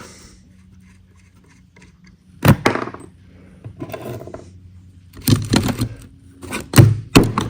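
Metal clinking and scraping as a connecting-rod bearing shell from a Ford 302 V8 is worked loose from its rod cap: one sharp, ringing clink about two and a half seconds in, then a quick cluster of clicks and scrapes over the last two seconds.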